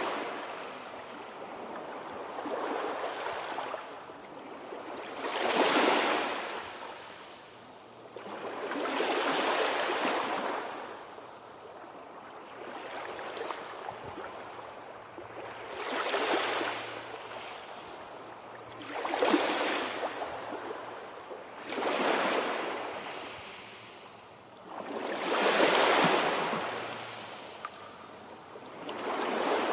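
Sea waves breaking and washing on the shore, one surge every three to four seconds, each swelling and then drawing back.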